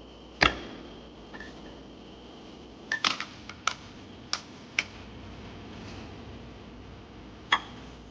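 Glass food-storage containers and their snap-on lids being handled: a series of sharp clicks and knocks. One loud click comes about half a second in, a quick cluster about three seconds in, a few more over the next two seconds, and a last one near the end.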